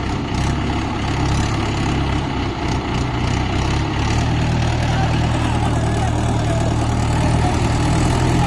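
Tractor diesel engine running steadily at low revs.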